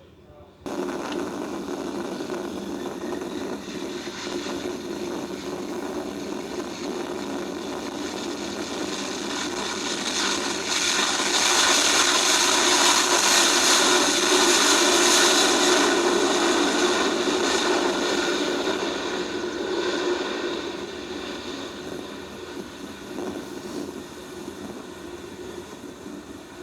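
Jet airliner passing: engine noise starts abruptly under a second in, swells to its loudest about halfway through, then fades away.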